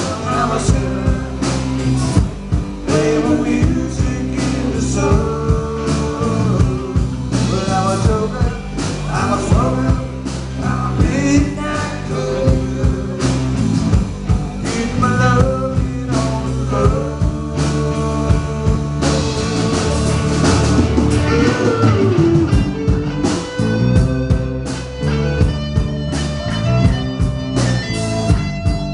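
Live band playing a mid-tempo blues-rock song: electric guitar over a steady drum beat, with a singing voice at times.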